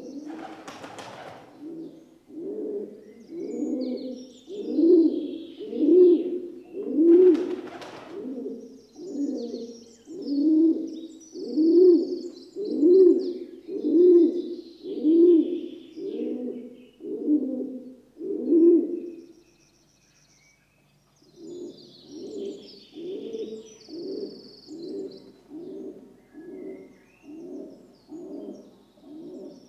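Rock dove cooing: a long series of low coos about one a second, breaking off for a moment about twenty seconds in, then resuming quicker and softer. Two brief rushing noises sound early on and about seven seconds in, and faint chirps of small birds sound in the background.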